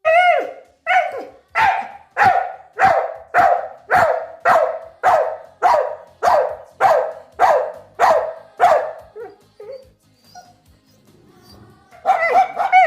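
A dog barking in a steady run, about one and a half barks a second, with a short pause about nine seconds in before a quicker volley of barks starts near the end. This is a jealous dog barking for attention.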